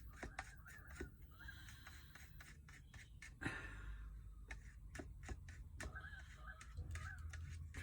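A spoon stirring acrylic paint in a plastic yogurt pot: faint, irregular clicks and scrapes against the sides of the pot.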